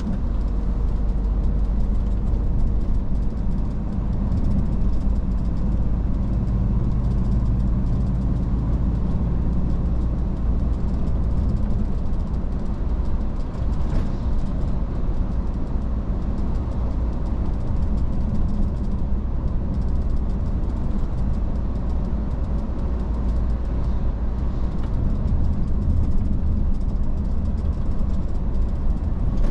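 Iveco S-Way truck driving at a steady pace: a constant low engine drone under even road and tyre noise, with a single brief tick about halfway through.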